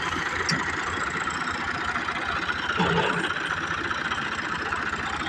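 Massey Ferguson 385 tractor's diesel engine running steadily at a constant speed.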